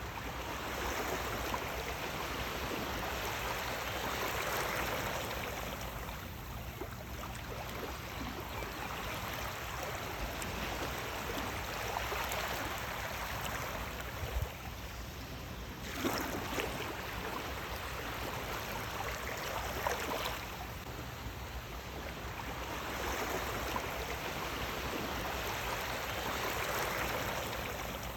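Sea waves washing in: a steady rush of water that swells and eases every few seconds, with an occasional sharper splash.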